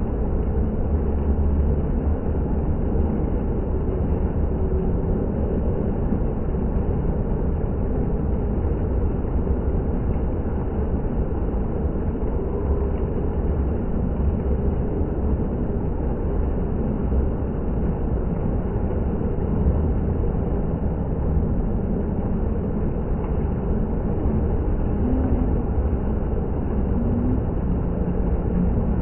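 Water fountain running, a steady rush of splashing water.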